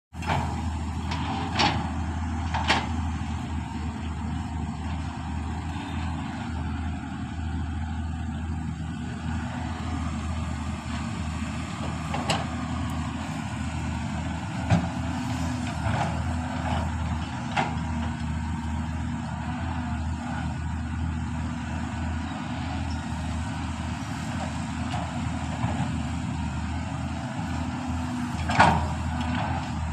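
Heavy diesel engine running steadily, with sharp metallic clanks every few seconds.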